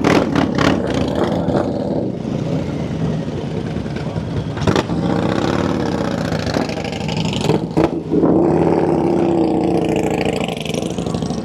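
Motorcycle engines running and revving on a crowded street, with voices mixed in; a louder engine comes in about eight seconds in.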